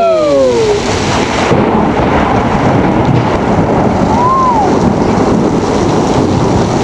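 Heavy thunderstorm downpour: a loud, steady rush of rain pouring down, with wind buffeting the microphone.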